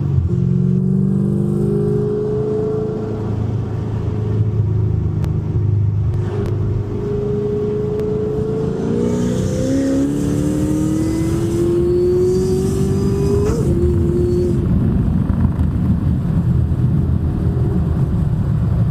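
Chevrolet Camaro ZL1's supercharged 6.2-litre V8 running hard through its aftermarket exhaust. The engine note rises in pitch in several long pulls, each broken off by a sudden drop, the longest ending about 13 seconds in.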